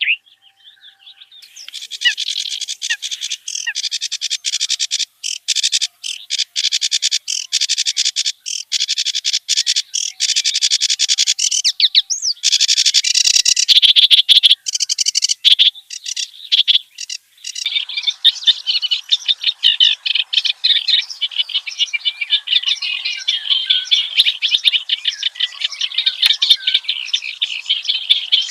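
Kerak basi (reed warbler) singing a fast, unbroken stream of harsh chattering and trilled phrases. The song changes abruptly a few times, as if separate takes are joined.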